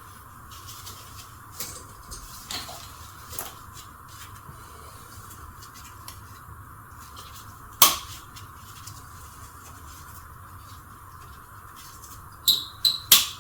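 Metal parts knocking and clanking as a car's half shaft is worked into the transmission for use as a slide hammer: a few light knocks, one loud clank about eight seconds in, and three quick sharp knocks near the end, over a steady background hum.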